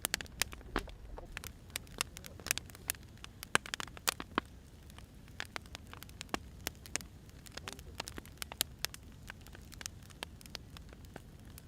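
Wood fire crackling: irregular sharp pops and snaps, clustered more densely about three to four and a half seconds in, over a low steady rumble of the burning logs.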